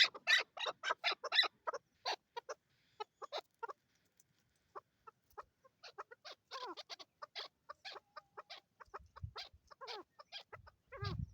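Chukar partridges calling: a quick run of sharp clucking notes, about five a second, slowing and thinning out after about two seconds. Scattered clucks and a few sliding, bending calls follow later on.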